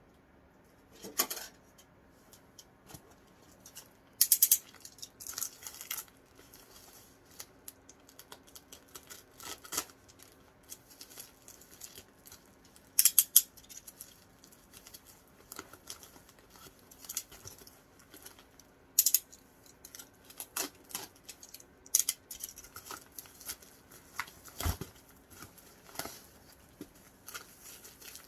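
A parcel's packaging being handled and opened by hand: scattered crinkles, rustles, tearing and light taps, with a few louder sharp ones.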